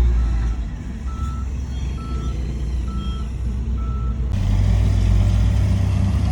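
Heavy construction vehicle's reversing alarm beeping about once a second over its diesel engine running, five beeps in all. After about four seconds the beeping stops and a louder, deeper engine sound takes over.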